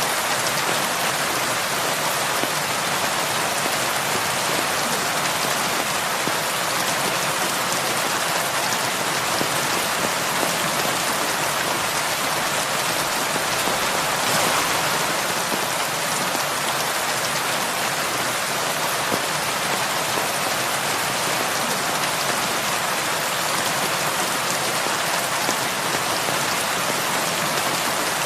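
Heavy rain falling steadily, a dense even patter of drops on surfaces with no let-up.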